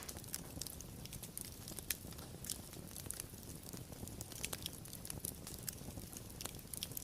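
Wood fire burning with irregular sharp crackles and pops over a steady low rumble of flame.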